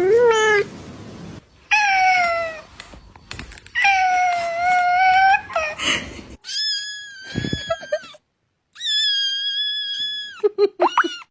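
Domestic cats meowing: about six separate meows, several of them long and drawn out, two higher and thinner ones about halfway through, and a few quick short calls near the end.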